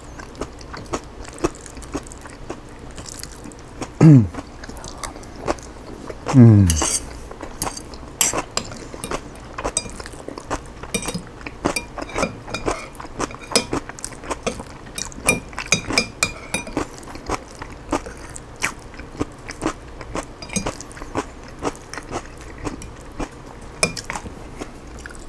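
Close-up chewing and crunching of chicken salad with crunchy cabbage, with light clinks of cutlery on a dish. About four and six and a half seconds in, two short, loud sounds slide sharply down in pitch.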